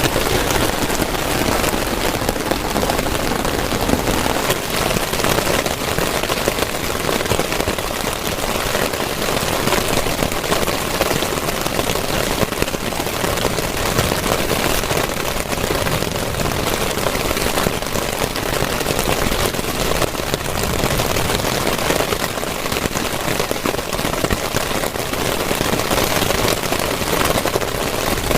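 Heavy rain falling steadily: a dense, even hiss of many drops striking a surface, with no let-up.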